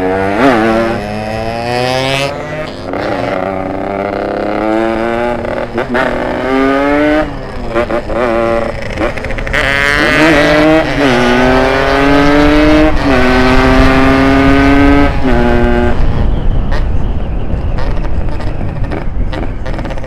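Ported Yamaha RX-King two-stroke single-cylinder engine accelerating hard, its pitch climbing and dropping back again and again as it shifts up through the gears, over a steady low rumble. About sixteen seconds in the revving eases to a lower, steadier run.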